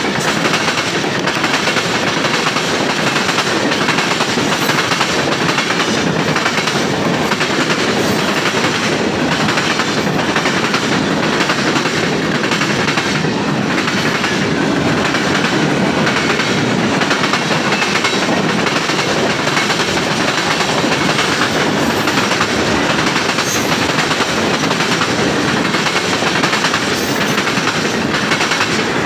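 Freight train cars rolling past, steel wheels clacking over the rail joints over a steady rumble.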